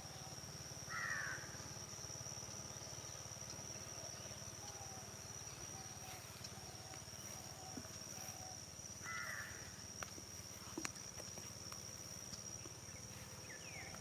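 Rural morning field ambience: a crow caws twice, about eight seconds apart, over a steady high-pitched insect drone, with a few faint short bird notes in between.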